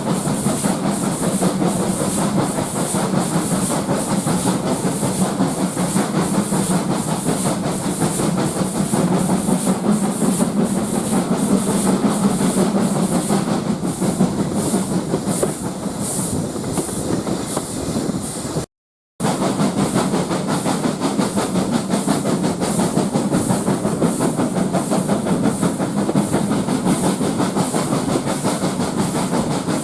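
Steam train running, a steady rumble with an even, repeating beat. The sound cuts out completely for a moment about two-thirds of the way through.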